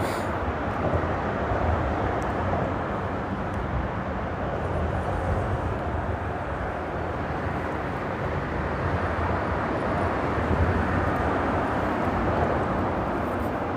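Steady rumble of freeway traffic crossing the bridge overhead.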